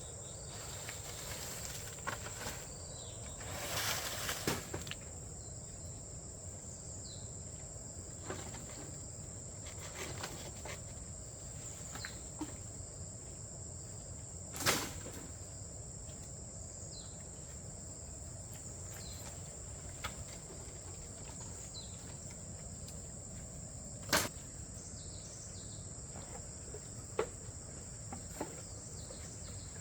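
A steady, high, thin insect chorus drones on. Scattered sharp knocks and a short rustle sound over it, the loudest knocks about halfway through and again about two-thirds of the way in.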